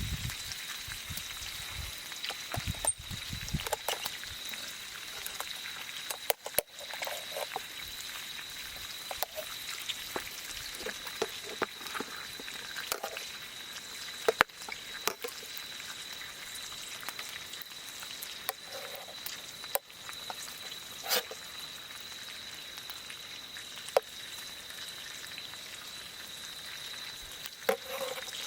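Campfire crackling: scattered sharp pops and ticks at irregular intervals over a steady hiss, with a thin steady high tone running underneath.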